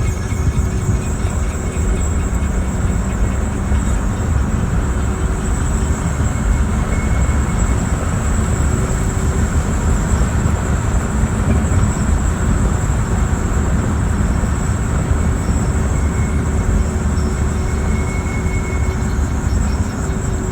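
2018 Jeep Renegade making a loud, steady grinding rumble. It is a rare intermittent fault that the owner says goes away after shifting into reverse or after a few minutes of running.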